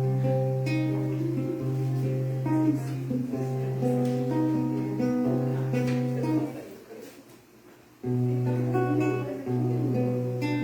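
Acoustic guitar playing chords and notes. It stops for about a second and a half a little past the middle, then starts again.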